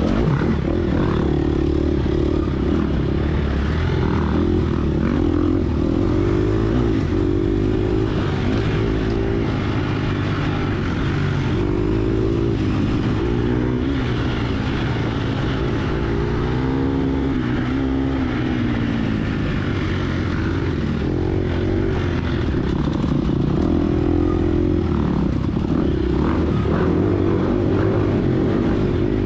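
Gas Gas EX250F dirt bike's four-stroke single-cylinder engine being ridden hard, its pitch rising and falling over and over as the throttle is opened and closed.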